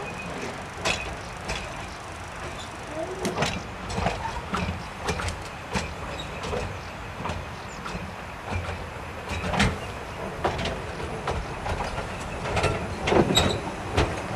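Narrow-gauge train rolling slowly in, carriage first: irregular clanks and knocks of the wheels over rail joints and points, over a low rumble, with a short squeal or two. It gets louder toward the end as the carriage draws alongside.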